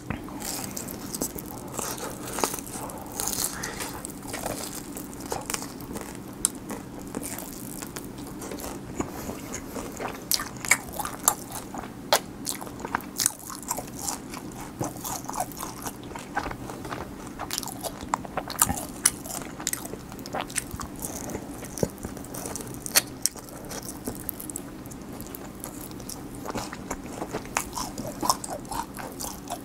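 Close-miked eating of crispy fried chicken: repeated sharp crunches of the battered skin being bitten and chewed. A faint steady low hum lies underneath.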